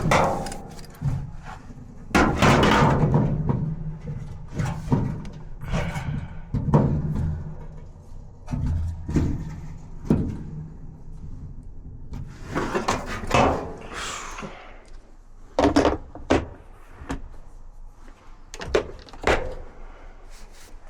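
Irregular knocks, clunks and scrapes of Samsung dryer panels and parts being handled during a drum roller repair, with a brief rushing scrape about two-thirds of the way through.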